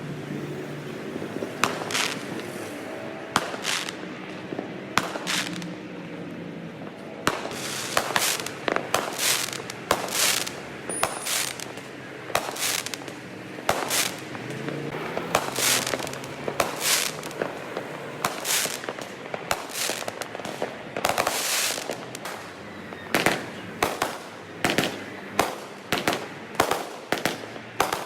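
Fireworks going off: a string of sharp bangs, spaced out at first and coming faster after several seconds, ending in a quick, even run of about two bangs a second.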